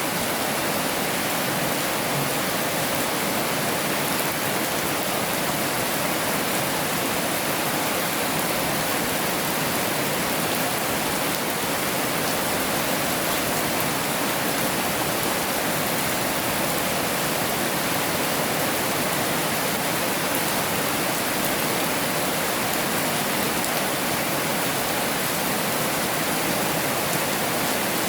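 Heavy rain falling, a steady, even hiss with no distinct drops or changes.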